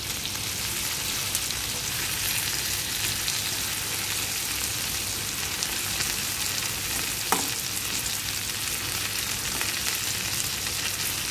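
Chicken pieces sizzling and crackling steadily in hot melted butter in a non-stick frying pan, while steel tongs stir and turn them. There is a single sharp click about seven seconds in.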